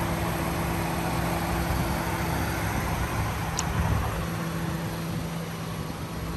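Car engine idling with a steady low hum, over outdoor traffic noise; a brief high chirp about three and a half seconds in.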